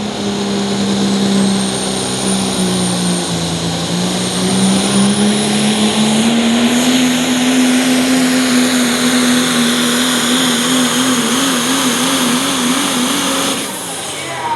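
Chevrolet super stock diesel pickup pulling the sled at full throttle, its engine pitch dipping at first, then climbing and holding steady over a high whistle. The pitch wavers near the end, and the engine drops off sharply about 13 to 14 seconds in as the truck comes off the throttle.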